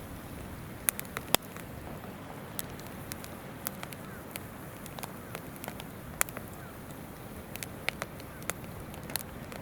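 Wood campfire crackling and popping, with sharp irregular snaps, the loudest about a second in and again past the middle, over the steady rush of a flowing river.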